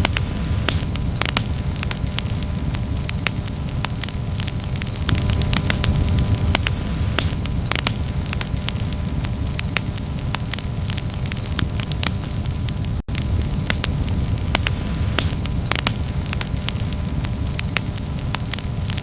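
Campfire of burning wood crackling, with frequent sharp pops over a steady low rumble of the flames. There is a split-second gap in the sound about thirteen seconds in.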